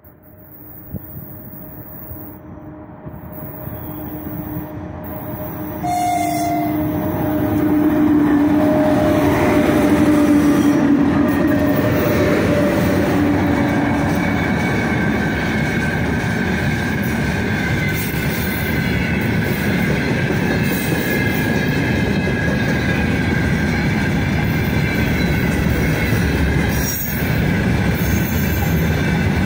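A freight train hauled by a four-section 2ES5K Ermak electric locomotive set approaches and passes close by, growing louder over the first several seconds. A steady low tone sounds as the locomotives come past. Then the wagons roll by with a steady rumble of wheels on rail and a high wheel squeal on the curve.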